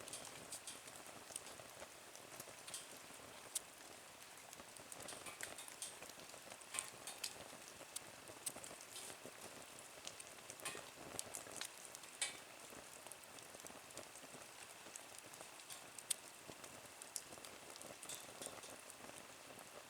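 Wood fire burning in a small nature stove, crackling with irregular snaps and pops over a faint hiss; a few sharper pops, one about three and a half seconds in and one about sixteen seconds in, stand out.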